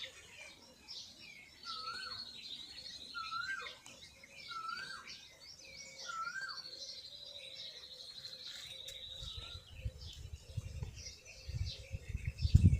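Birds chirping: one bird repeats a short, upward-hooked call four times about a second apart, while others trill high and long. Near the end a low rumble comes in, like wind or handling noise on the microphone.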